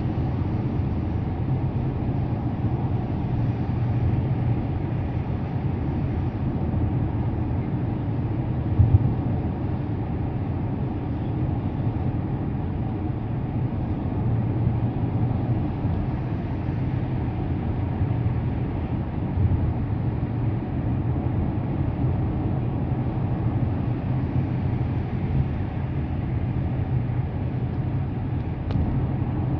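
Car driving on a highway: steady road and tyre noise with a low rumble, and one brief thump about nine seconds in.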